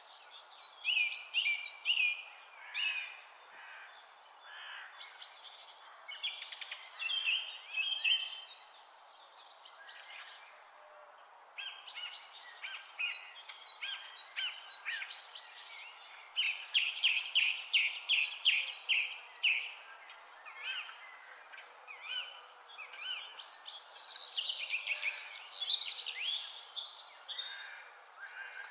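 Several songbirds singing in quick chirps and trills, overlapping phrases with a brief lull about ten seconds in, over a steady background hiss.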